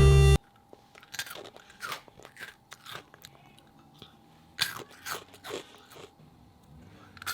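Crunchy snack being bitten and chewed, with short crunches at irregular intervals, just after a music sting cuts off.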